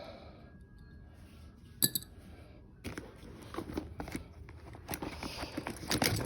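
Metal hand tools clinking and rattling as they are handled and pulled out of a tool tote bag: one sharp clink early, then a run of small clicks and rustling from about halfway in.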